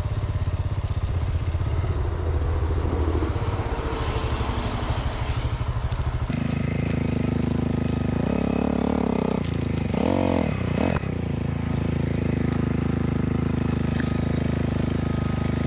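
Dual-sport motorcycle engine running at a low steady idle, then, after an abrupt change about six seconds in, revving in two short rising-and-falling surges as the bike is ridden over logs on the trail.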